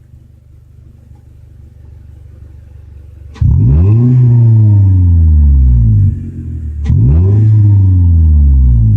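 2009 Toyota Corolla's four-cylinder engine heard at the exhaust, which runs through a Flowmaster 40 Series muffler. It idles steadily, then is revved twice, about a third of the way in and again about two-thirds in. Each time it snaps up in pitch and then winds slowly back down.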